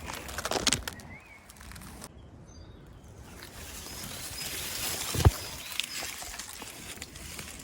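Rustling and crackling of hedge twigs and leaves as a person pushes out through a hedgerow, with one sharp knock about five seconds in and faint birdsong behind.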